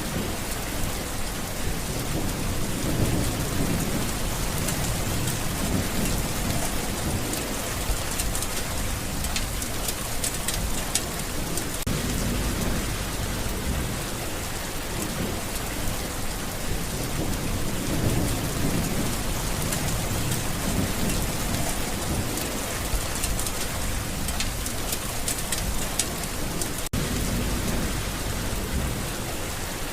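Steady heavy rain with thunder rumbling low in the background, swelling and fading several times.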